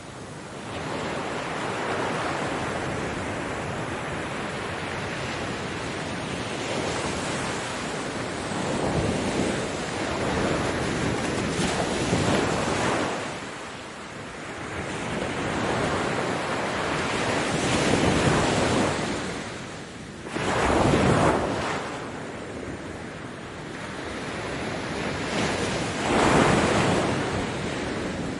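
Ocean waves breaking and washing on a beach, a continuous surf rising and falling as each wave comes in, with the loudest breakers about two-thirds of the way through and near the end.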